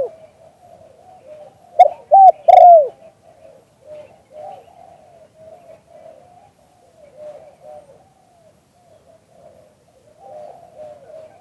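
Spotted dove cooing: a loud phrase of three coos about two seconds in, the last sliding down in pitch, followed by fainter cooing that carries on throughout.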